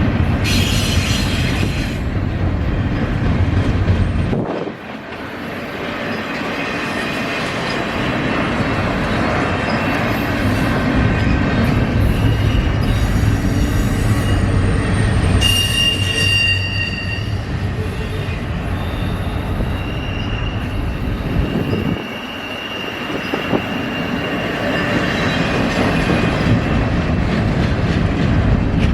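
A train rolling past with a steady rumble of steel wheels on rail, and thin high-pitched wheel squeal that comes and goes, loudest in the middle stretch.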